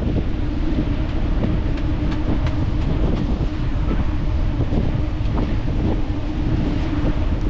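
Wind buffeting the microphone while cycling: a steady low rumble of rushing air and rolling noise, with a faint steady hum underneath and a few light clicks.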